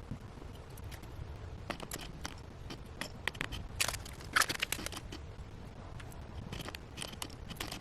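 Light, irregular clicks and short scrapes of small LEDs being handled and pushed into the holes of a model truck's metal front bumper, a few sharper clicks about halfway through.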